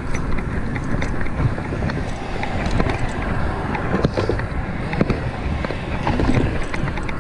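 Wind noise on the microphone and road noise from a fixed-gear bicycle being ridden, with frequent small clicks and knocks.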